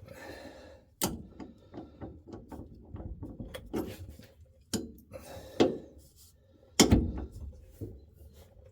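Socket wrench working a 21 mm shock mounting bolt loose: a string of irregular metallic clicks and knocks. The loudest knocks come about a second in, around five and a half seconds, and near seven seconds.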